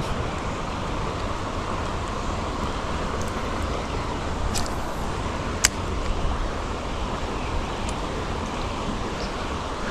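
Steady rush of flowing creek water, with a single sharp click about five and a half seconds in.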